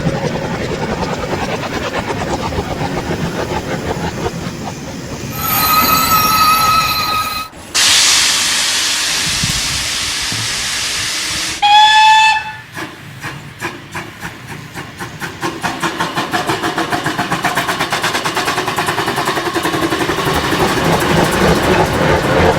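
Digital sound of a Märklin model steam locomotive (BR 50/BR 52): a long whistle, a loud steam hiss, a second short whistle, then exhaust chuffs that quicken steadily as the locomotive pulls away with its train.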